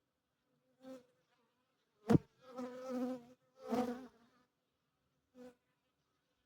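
Honeybees buzzing in several short separate passes close to the microphone, each a pitched hum that comes and goes, with a sharp tap about two seconds in.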